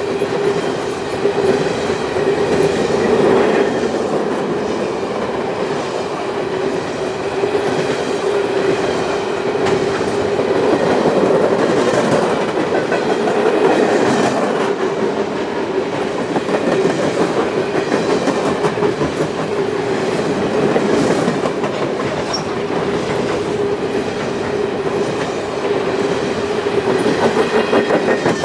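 Freight train cars rolling past on the rails, with a steady drone and wheels clicking over the rail joints, the clicks falling into a quick regular rhythm near the end.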